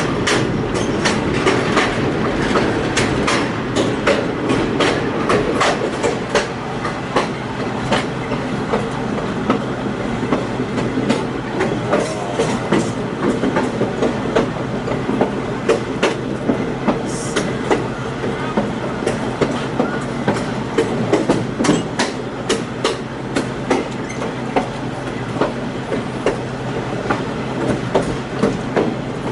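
Passenger railroad car rolling along the track: a steady rumble with the wheels clicking over rail joints many times, irregularly spaced.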